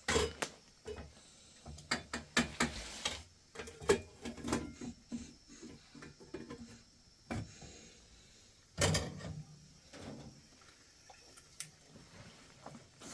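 Irregular clicks, knocks and clatter of objects being handled, with a louder knock about nine seconds in.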